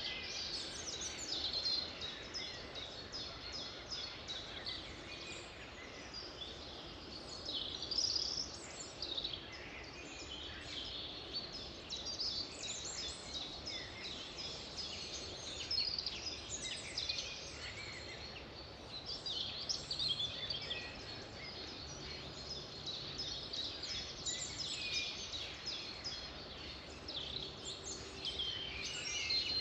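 Many birds singing and calling at once, a dense chorus of chirps and trills over a steady background hiss.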